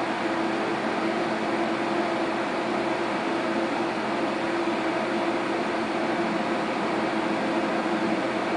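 Electric fan of a tornado-vortex demonstration running steadily: an even rush of air with a constant low hum.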